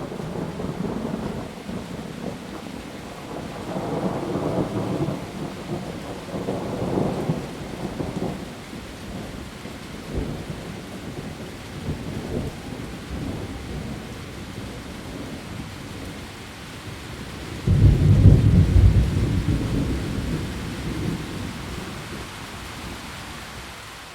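Steady heavy rain with thunder rolling through it in several swells, then a sudden loud thunderclap about three-quarters of the way in that rumbles away over a few seconds.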